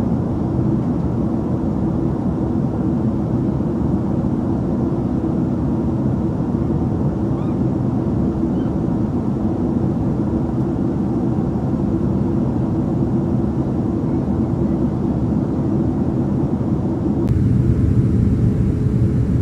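Steady engine and airflow rumble of a Boeing 767-300ER heard inside the cabin during descent. About seventeen seconds in, it turns deeper and a little louder, with a steady hum.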